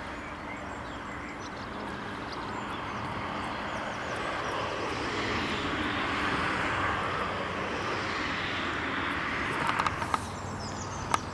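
An aircraft passing overhead: a steady rushing engine noise that slowly swells to its loudest around the middle and then fades. A few sharp clicks come near the end.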